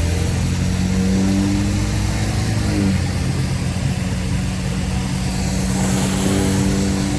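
Car engine pulling under throttle, its pitch climbing slightly and then dropping sharply about three seconds in before holding steady, over a constant hiss of tyres on a wet road.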